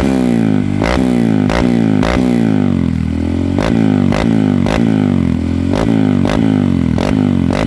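Honda CRF150 single-cylinder four-stroke engine breathing through a KTM exhaust, revved in quick repeated throttle blips about twice a second, the pitch falling back after each blip.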